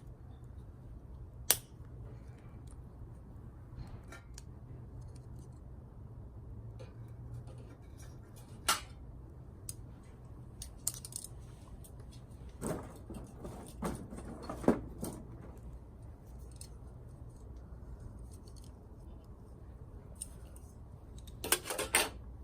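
Scattered sharp clicks and light clinks of small objects being handled, with a cluster about halfway through and another near the end.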